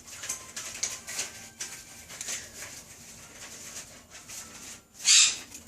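Quaker parrot nibbling a Ritz cracker, a run of small crisp crunches and crackles. About five seconds in comes one short, loud, harsh sound.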